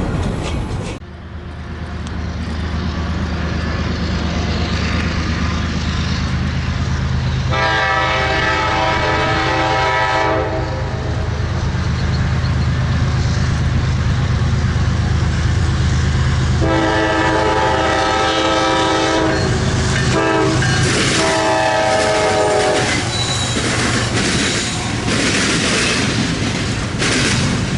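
Diesel freight locomotive running with a steady low engine drone and rolling wheel noise, sounding its air horn in two long blasts, a short one and a long one: the grade-crossing signal.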